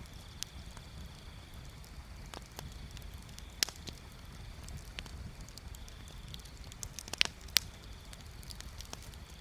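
Wood fire crackling, with irregular sharp pops and snaps over a low steady rumble; the loudest pops come a little past the middle and twice near the end.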